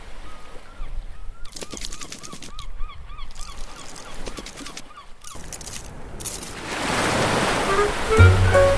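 A run of short honk-like calls, several a second, mixed with clicks. Then a rising whoosh swells up, and music begins near the end.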